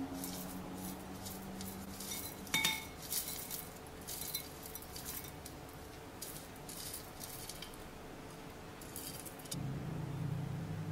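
Cutlery and dishes clinking and tapping in kitchen work, with one ringing clink about two and a half seconds in. A low steady hum starts near the end.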